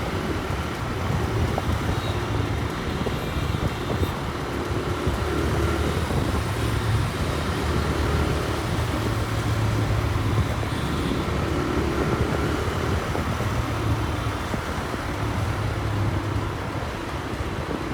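Raider motorcycle's single-cylinder engine running while riding, its note swelling and easing every few seconds with the throttle, over road and wind noise.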